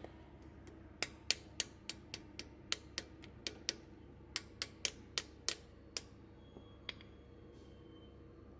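Sharp metallic clicks from hand tools refitting the 8 mm screws of a Kawasaki KLR650's oil filter cover, about fifteen in five seconds at an uneven pace.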